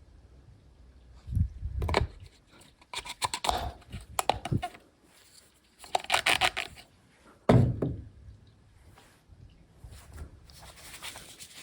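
Irregular knocks and clattering in several bursts, with a heavier thud about halfway through, as of hard objects being handled and set down.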